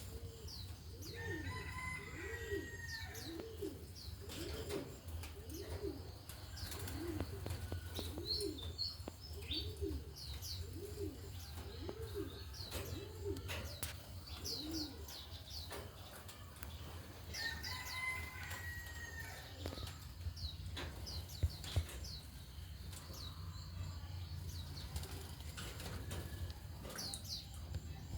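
Birds calling: one bird gives a low call repeated evenly about once a second for roughly the first fifteen seconds, while others add short high chirps and a whistled phrase now and then. A steady low hum runs underneath.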